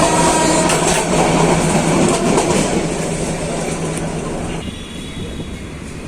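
Train running on the rails, a loud steady rumble with scattered clicks from the wheels and rail joints. The noise fades from about halfway through and drops again near the end.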